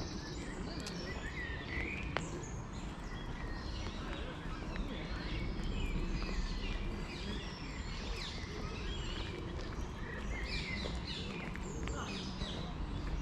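Small birds chirping and singing in quick, overlapping calls over a steady low rumble of wind on the microphone.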